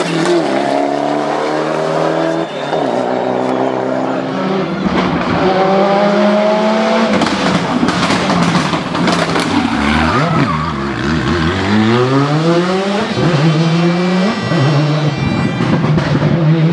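Rally car engines revving hard, the pitch climbing and dropping again and again as the drivers shift through the gears, with a steep climb under acceleration about two-thirds of the way through.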